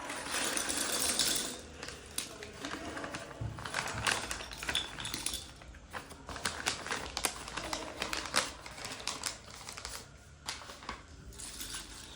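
Small plastic Lego pieces clicking and rattling as they are handled, with a rustle in the first second or so followed by many sharp, irregular clicks.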